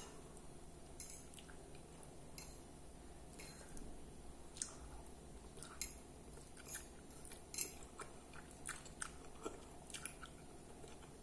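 Faint chewing of a mouthful of pasta and beef liver, with soft scattered clicks of the mouth and teeth.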